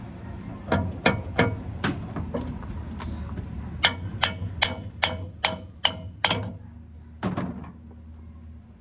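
A series of sharp metallic clicks and knocks from differential gear parts being handled: a few spaced strikes, then a quicker run of about two a second, then one last knock.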